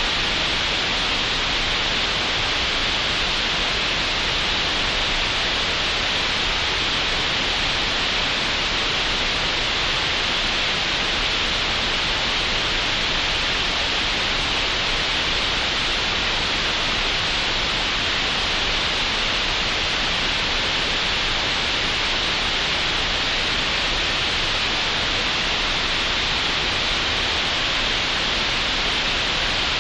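Steady synthetic green noise generated in Audacity: an even, unbroken hiss, brightest in the upper-middle range and with nothing above a sharp upper cutoff.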